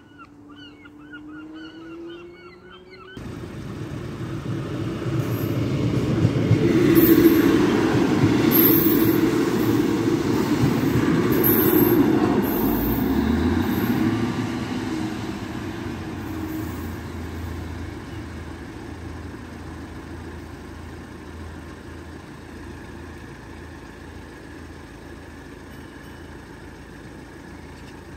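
Diesel multiple unit train running past a level crossing: the rumble of its engine and wheels on the rails builds from about three seconds in, is loudest around the middle, then fades steadily as the train moves away.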